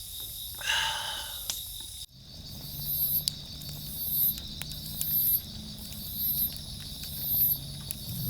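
Crickets and other insects chirping: a steady high trill, with louder bursts of very high chirping about once a second after the first two seconds. A short pitched call is heard about a second in, along with scattered faint clicks.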